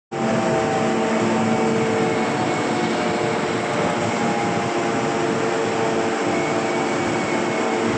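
Railway wagon tippler machinery running: a steady mechanical drone with several held whining tones over a broad rumble.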